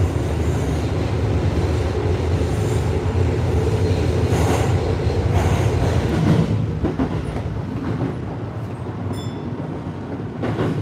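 Electric commuter train running on rails, heard from inside the front carriage: a steady low rumble of wheels and running gear. It eases off after about six seconds as the train slows into the terminal station, and a few short high tones follow.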